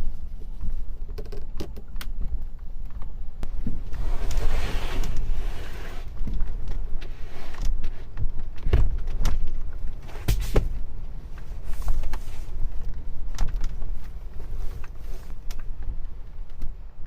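Heavy wind rumble on the microphone, with scattered knocks and clicks from the camper's fittings and a hissing stretch a few seconds in.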